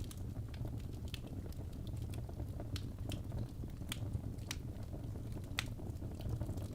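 Wood fire burning in a fireplace: a steady low rumble of flames with irregular sharp crackles and pops, a few louder snaps about three, four and five and a half seconds in.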